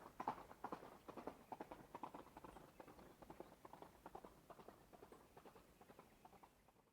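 A running horse's hoofbeats in a quick, even rhythm, loud at first and growing steadily fainter as the horse moves away, dying out at the very end.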